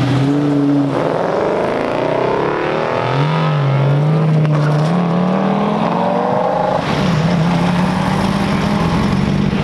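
Car engine accelerating: its pitch climbs for several seconds, dips briefly about three seconds in, then climbs again and holds steady near the end.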